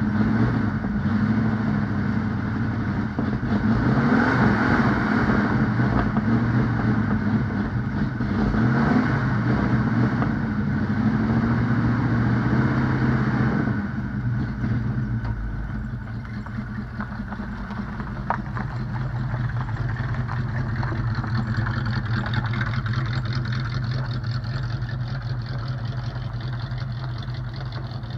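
Engine of a 1970 Ford Mustang fastback revving up and down several times while the car stands parked. After a cut about halfway through, it runs more steadily and quietly as the car drives off.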